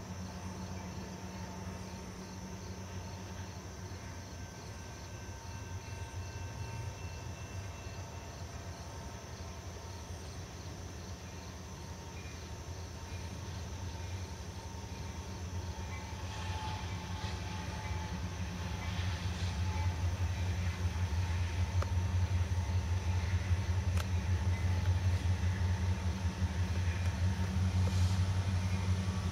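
Approaching train's diesel locomotive, a steady low engine drone that grows louder over the second half. Crickets chirp faintly in the background.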